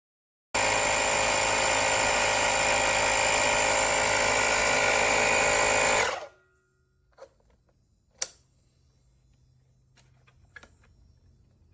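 Oil-free air compressor motor and pump running with a steady whine, starting abruptly about half a second in and cutting off just after six seconds. A couple of faint clicks follow.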